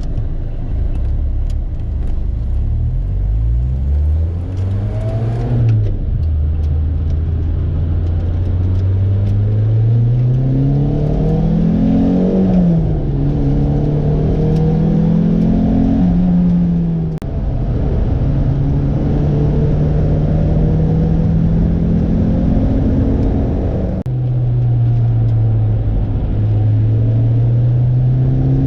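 A Lotus sports car's engine under hard acceleration on track, its pitch climbing through each gear and dropping sharply at the shifts, about three times in the first 17 seconds. Near 17 and 24 seconds the sound briefly dips, then the engine holds a steadier pitch and climbs again.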